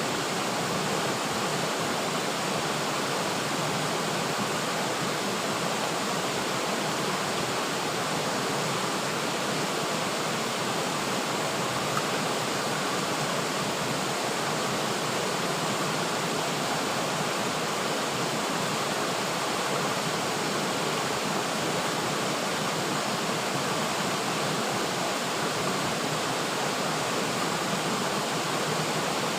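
River water flowing, a steady even rush without breaks.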